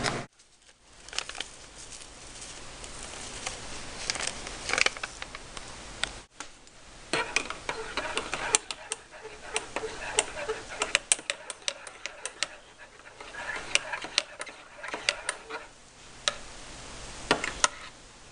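Irregular light clicks, taps and knocks of small household things being handled, over a low room hiss.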